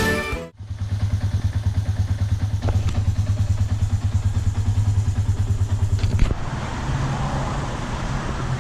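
Underbone motorcycle's small single-cylinder engine idling with an even, rapid pulsing beat. About six seconds in the sound changes to a smoother, steadier engine note.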